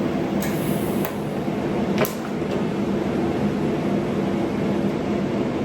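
Everlast Typhoon 230 TIG welder humming steadily during tack-welding attempts on stainless steel. A brief high hiss comes about half a second in, and a single sharp crack about two seconds in.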